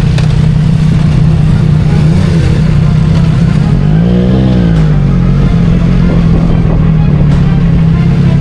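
Motorcycle engine running at a steady speed, with one brief rev that rises and falls back about four seconds in.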